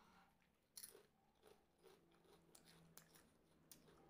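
Faint, irregular crunching as a crunchy snack is bitten and chewed close to the microphone, the sharpest crunch just under a second in.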